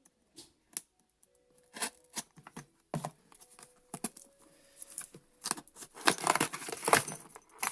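Packing tape being ripped off a cardboard shipping box: scattered short tugs and crackles at first, then a longer stretch of continuous tearing near the end.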